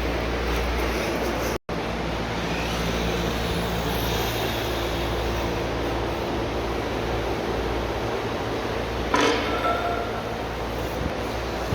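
Electric radio-controlled drift cars running on the track: a steady mechanical hum with a haze of motor and tyre noise, and a sharper, louder burst about nine seconds in.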